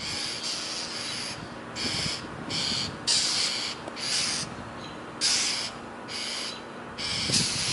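Birds scolding a hawk with a series of harsh, rasping alarm calls, about one a second: mobbing calls at a predator.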